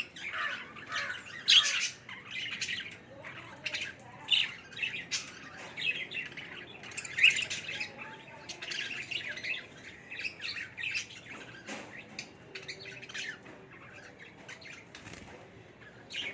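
Budgies (baby parakeets) chirping and squawking, many short calls in quick succession, busiest in the first half and thinning out toward the end.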